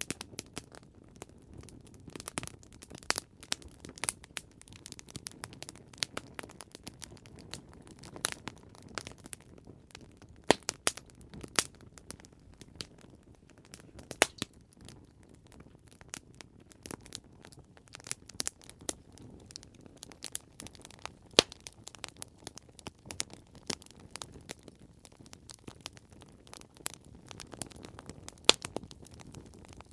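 Campfire crackling: irregular sharp pops and snaps of burning wood over a soft low rush of flame, with a few louder pops scattered through.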